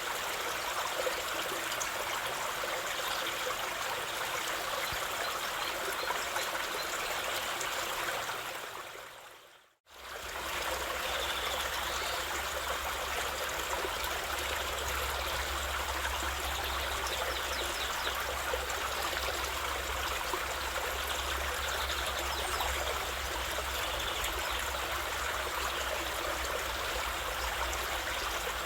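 Steady rushing and trickling of a flowing stream. About ten seconds in it fades out to silence and straight back in, like a join between two recordings, and afterwards a deeper low rumble sits under the water.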